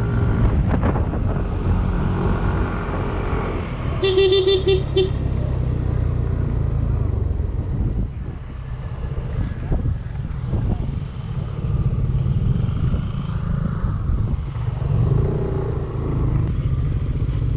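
Yamaha Aerox 155 scooter's single-cylinder engine running while riding, with wind and road rumble. About four seconds in, a vehicle horn beeps in a quick run of short pulses.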